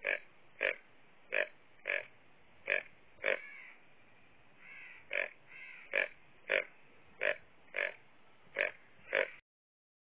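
A deer calling: about a dozen short, abrupt calls, roughly one every half to three-quarters of a second, with a brief pause in the middle, stopping abruptly near the end.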